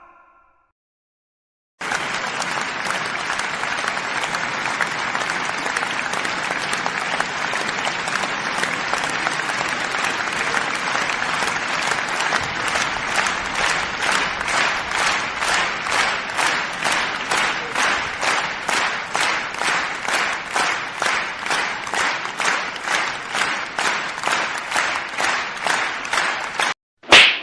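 Crowd applause that settles, about halfway through, into rhythmic clapping in unison at about two claps a second. A brief loud sound follows near the end.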